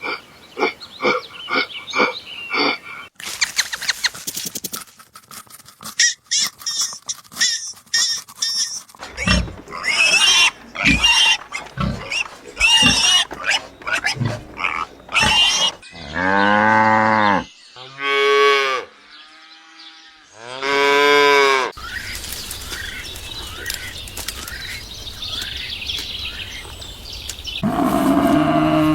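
A run of different animal calls, one clip after another. First come quick repeated calls, then assorted harsh cries and grunts, three long drawn-out calls in the middle, and a low call near the end.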